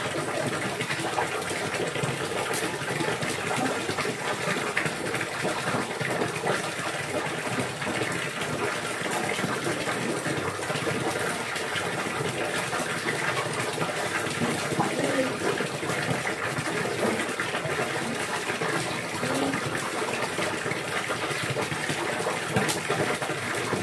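Steady rushing of running water, an even continuous wash of noise.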